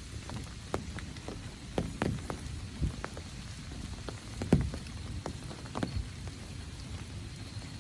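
Rain falling, with large drops tapping irregularly close by, one sharper tap about halfway through, over a low steady patter. A faint steady insect drone sits high above it.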